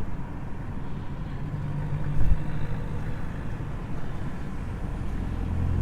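A car engine running at low speed, a steady low drone that grows a little louder toward the end, with a single thump about two seconds in.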